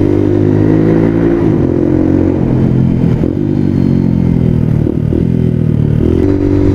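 Small dual-sport motorcycle's engine running under way. Its pitch drops about a second and a half in, sags slowly through the middle as the bike slows, then climbs again near the end as it pulls away.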